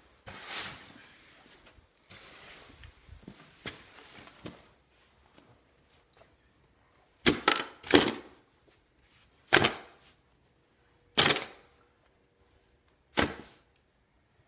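Snow being brushed off a car: short swishing strokes, soft and scattered at first, then five or six sharp, loud strokes a second or two apart.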